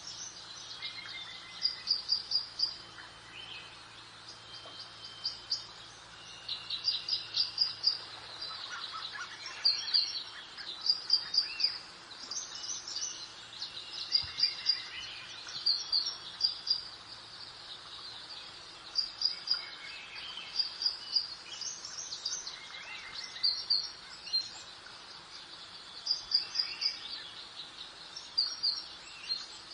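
Songbirds chirping and singing, quick runs of short high notes repeating every second or two, with a few lower sliding calls, over a soft steady background hiss.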